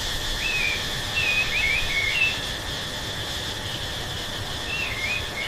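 Birds chirping in short, warbling phrases, in two spells about a second in and again near the end, over a steady high drone and hiss.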